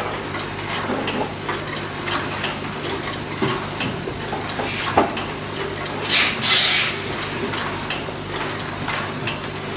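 Chewing-gum overwrapping machine running with a steady hum and regular clicking about twice a second. A sharper click comes about halfway through, followed by a hiss lasting about a second.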